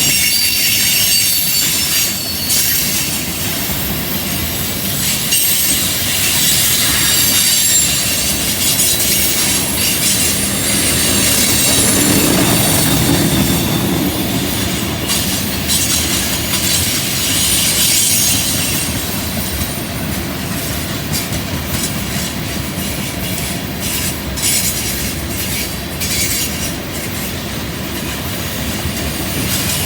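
Freight train rolling through a curve, its steel wheels squealing against the rail. Short clicks of wheels over rail joints come thicker in the second half.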